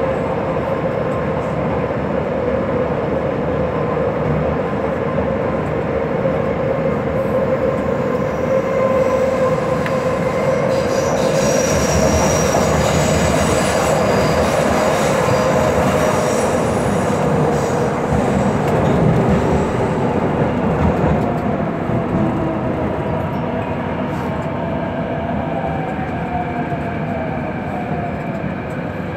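MTR C-Train metro train running, with continuous wheel and track rumble and a steady motor tone. The wheels squeal high-pitched for several seconds around the middle. In the last third the motor tone glides in pitch as the speed changes.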